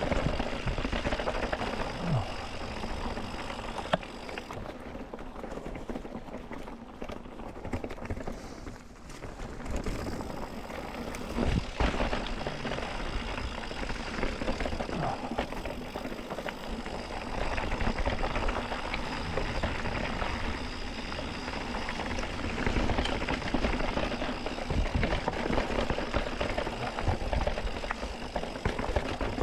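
Mountain bike rolling over rough, rocky singletrack: steady tyre and trail noise with frequent knocks and rattles from the bike, easing briefly about eight seconds in.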